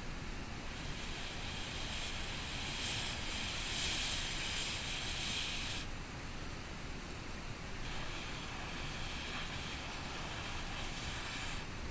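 Campfire burning with a steady hiss that swells and fades every few seconds.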